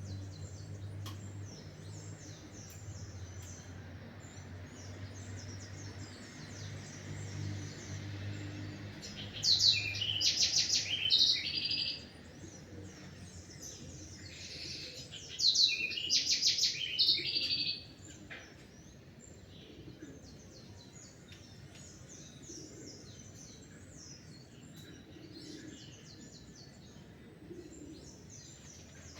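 Several small songbirds chirping and calling at dawn. A nearer bird sings two loud, rapid song phrases of about two seconds each, a third and a half of the way in. A low steady hum fades out about a third of the way in.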